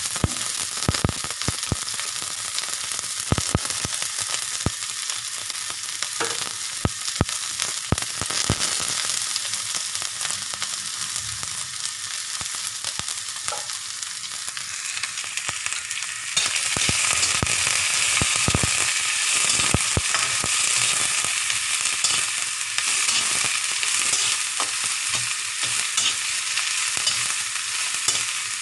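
Cauliflower and carrot pieces sizzling in hot oil in a wok as they are stir-fried, with a spatula scraping and knocking against the pan now and then. The sizzle grows louder a little past halfway.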